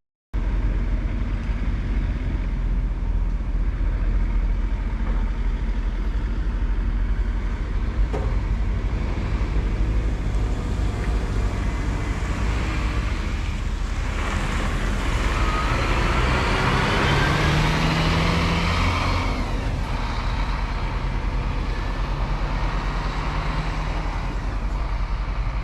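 Scania bus running downhill on a ghat road: a steady engine and road rumble, with a swell of louder, higher-pitched noise lasting several seconds midway.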